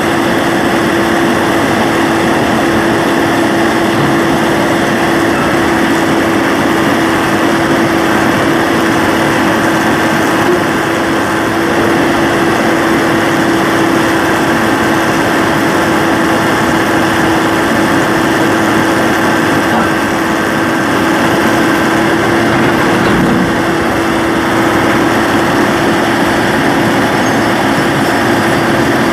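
Excavator's diesel engine running steadily at a constant speed, with a steady hum, dipping slightly a couple of times.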